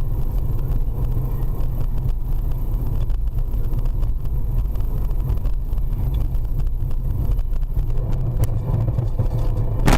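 A car on the move: a steady low rumble of engine and road noise, with one sharp click near the end.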